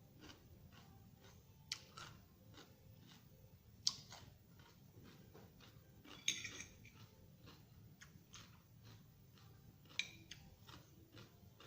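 Close chewing and crunching of raw vegetable salad: a run of small crisp crunches, with four louder, sharper clicks spread through.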